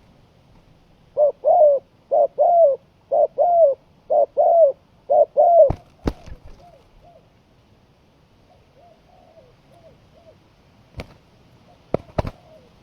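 Spotted dove cooing: five loud two-note coo phrases, about one a second, followed by fainter coos. Several sharp clicks cut in around the middle and near the end.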